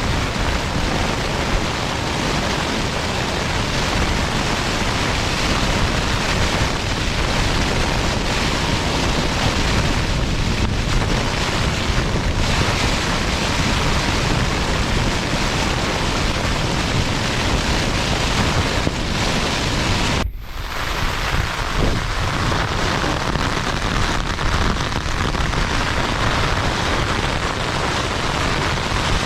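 Strong, gusty wind and heavy rain making a loud, steady rushing noise, with a brief dropout about two-thirds of the way through.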